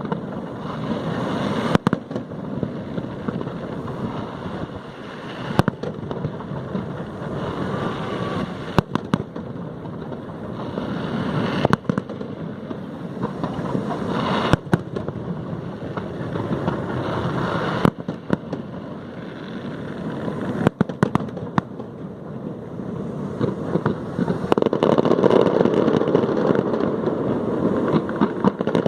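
Aerial fireworks display: shells burst with sharp bangs every three seconds or so over a continuous rumble and crackle. The din swells louder near the end.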